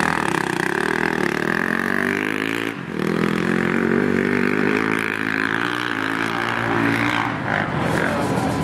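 Motocross bike engine revving high and held at length, with a brief dip about three seconds in, as the bike crawls up a steep muddy climb with the rider paddling a foot.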